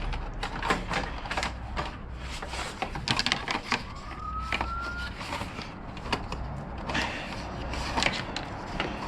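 Scattered clicks and knocks of plastic motorcycle fairing pieces and their push-tab fasteners being worked loose by hand. A short, faint rising tone sounds about four seconds in.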